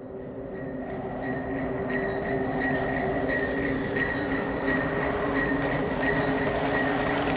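Sleigh bells jingling in a steady rhythm, about one shake every three quarters of a second, over a steady rushing noise, fading in.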